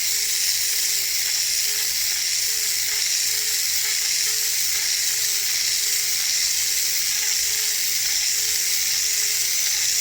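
Small electric resin mixer with a paddle, running steadily while it stirs resin in a cup: an even motor whine with a high hiss.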